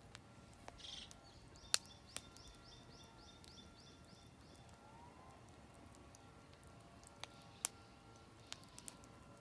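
Oak firewood burning in a campfire, crackling with scattered sharp pops; the loudest pops come a little under two seconds in and near eight seconds. A songbird sings a quick run of about a dozen repeated high notes from about one to three and a half seconds in.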